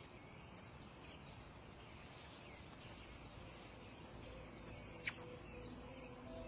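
Faint outdoor ambience with small birds chirping now and then, one sharp, louder chirp about five seconds in. Soft, sustained music starts to fade in near the end.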